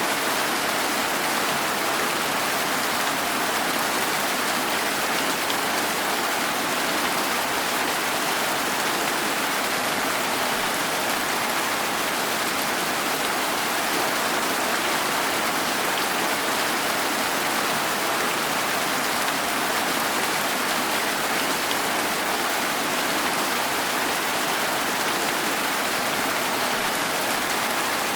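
Steady rain falling, an even hiss of drops without thunder or distinct patters standing out.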